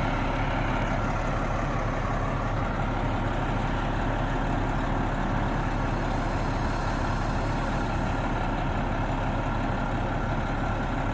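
A large engine running steadily close by, loud and unchanging throughout.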